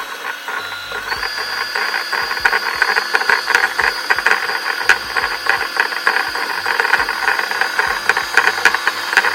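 Brother CP100X computerized sewing machine's motor running at speed to wind a bobbin: a steady high whine with a fast mechanical rattle, its pitch stepping up slightly about a second in.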